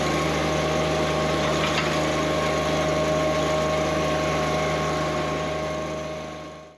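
Engine running steadily at a constant speed, fading out near the end.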